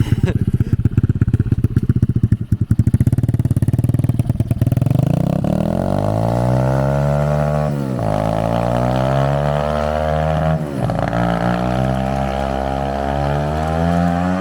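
125cc dirt bike engine on a drift trike, chugging at low revs, then revving up. Its note climbs steadily, drops sharply and climbs again twice.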